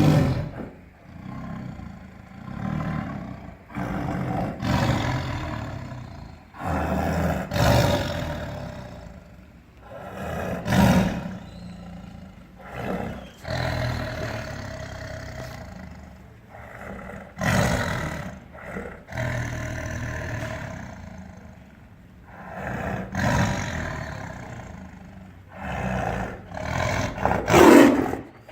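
Tiger roaring again and again, each roar a second or two long with short pauses between, the loudest one near the end.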